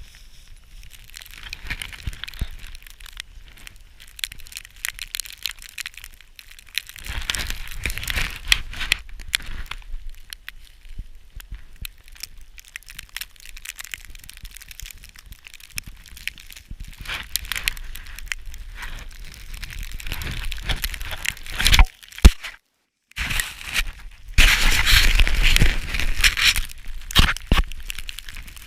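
Footsteps crunching through deep snow with crackling on the microphone, louder in stretches, with a sharp knock and a brief cut to silence about two-thirds of the way through.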